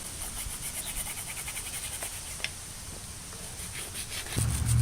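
A hand brush scrubbing grime off copper vise soft jaws in quick, rapid strokes, several a second. Near the end a louder low hum starts up under the scrubbing.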